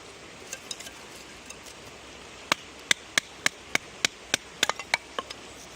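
Batoning firewood: a wooden baton knocking on the spine of a Mora knife to split dry wood into kindling. A run of about ten sharp knocks, roughly three a second, starts about two and a half seconds in, after a few lighter taps.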